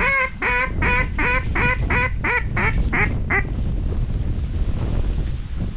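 Hen-mallard quacking blown on a duck call, a descending run of about eleven loud quacks that get shorter and quicker and stop about three and a half seconds in, over steady wind rumble on the microphone.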